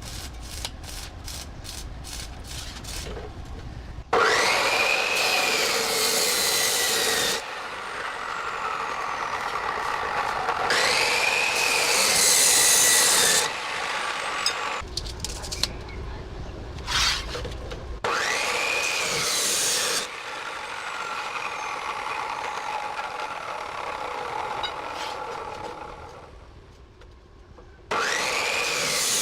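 Workshop restoration noise in several abruptly cut segments of abrasive grinding or sanding. A power tool's whine rises and falls as it spins up at the start of several segments, and there are quick regular clicks near the beginning.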